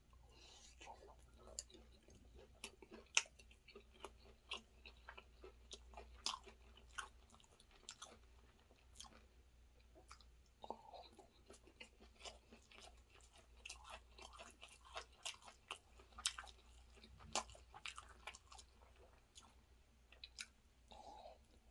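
A person chewing mouthfuls of chicken biryani rice: soft, irregular clicks and smacks of the mouth.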